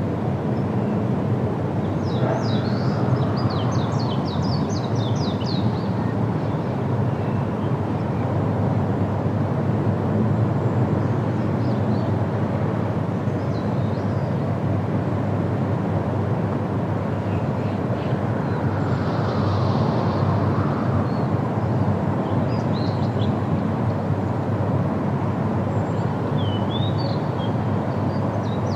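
Steady, deep wind noise with small birds chirping in short flurries, busiest a couple of seconds in and again near the end.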